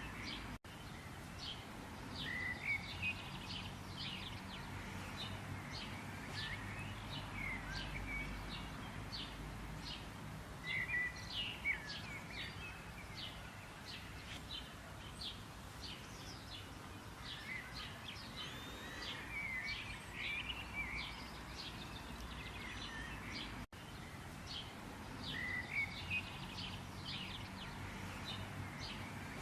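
A chorus of small birds chirping and calling, many quick chirps with a few whistled notes, over a steady low outdoor background rumble. The sound cuts out to silence for an instant twice, about half a second in and about three-quarters of the way through.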